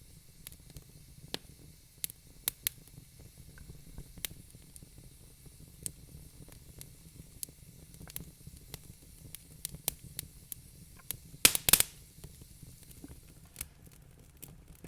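Wood fire crackling: irregular sharp pops and snaps over a low steady rumble and hiss, with a quick run of louder pops about two-thirds of the way in.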